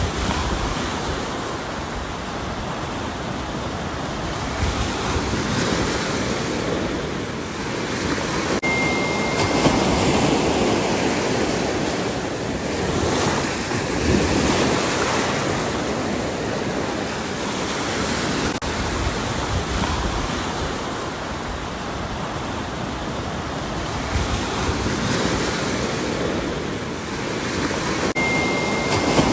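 Ocean surf: waves breaking and washing in a continuous rush that swells and eases every few seconds, with some wind on the microphone.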